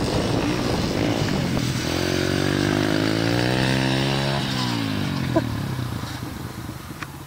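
Dirt bike engine running, its pitch climbing for about two seconds and then dropping off about halfway through, before fading away.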